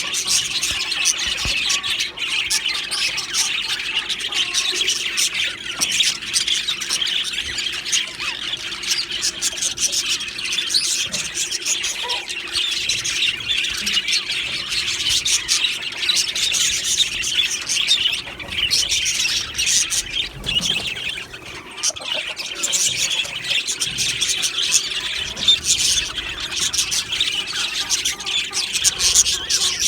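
A flock of budgerigars chattering continuously, a dense mix of warbling chirps and sharp squawks.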